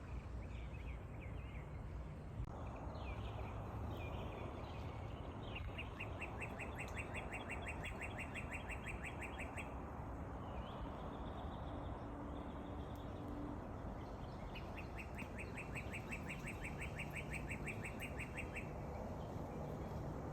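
Bird calls: a few chirps in the first seconds, then two long rapid trills of about four seconds each, several seconds apart, over a steady outdoor background hiss.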